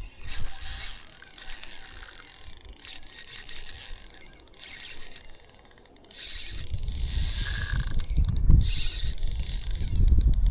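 A small hand-worked mechanism clicking and whirring, with a low rumble coming in about six seconds in.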